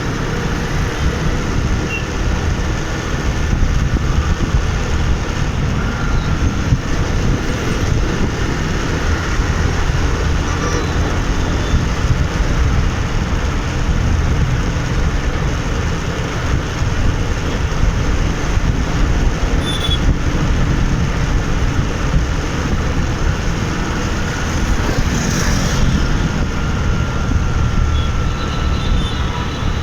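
Steady city traffic noise heard from a bike riding through the streets: a constant low rumble with no breaks.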